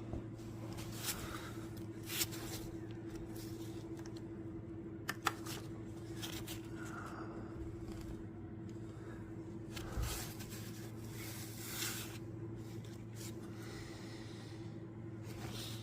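Scattered clinks and scrapes of tools and engine parts being handled during an engine teardown, over a steady low hum.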